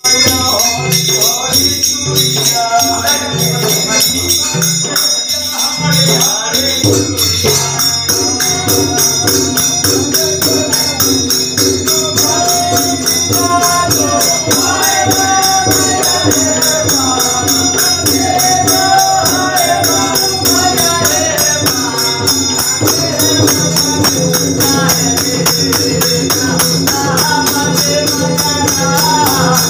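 Devotional folk bhajan music: jhal hand cymbals clash in a fast, steady rhythm over a hand drum, with singing that grows stronger after about ten seconds.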